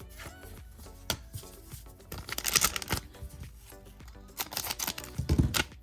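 Trading cards and a foil booster-pack wrapper handled by hand: two bursts of rustling and crinkling, about two seconds in and again near the end with a soft thud, over steady background music.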